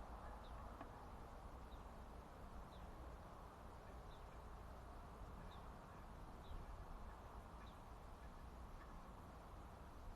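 Near silence with faint, short high chirps repeating about once a second, from a bird, over a low steady background hum.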